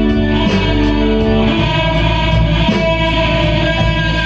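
Blues-rock band playing: electric guitar holding notes over bass, with a steady hi-hat beat ticking about three times a second.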